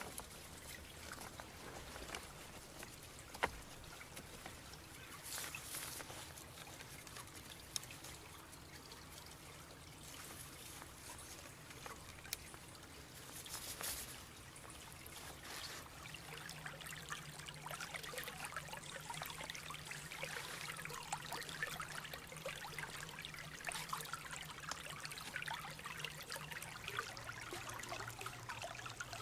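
Water trickling, with a few sharp knocks in the first half, growing busier and more crackly from about halfway through.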